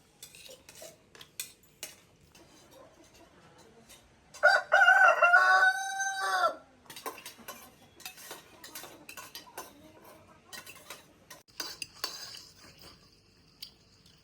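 A rooster crows once, about four seconds in: a loud call of about two seconds, choppy at the start, then a long held note that drops away at the end. Around it, light clinks of cutlery against dishes.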